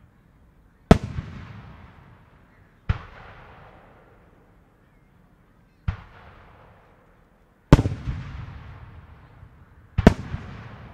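Large Japanese aerial firework shells going off: five loud bangs two to three seconds apart, each trailing off in a long echoing rumble. The last bang is a double report.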